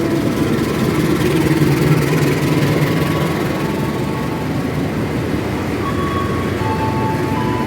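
Indonesian train at close range: a steady, loud rumble of the train's wheels and engine, with a few faint thin tones.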